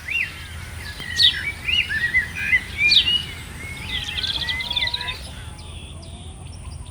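Birds singing and chirping: a few sharp sweeping calls about a second and a half apart mixed with lower chirps, and a short rapid trill about four seconds in, the birdsong thinning out near the end. A steady low rumble runs underneath.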